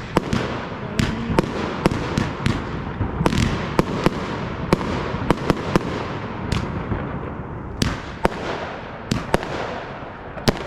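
Fireworks going off in a continuous barrage: many sharp cracks at an irregular pace over a steady rumble of overlapping shell bursts.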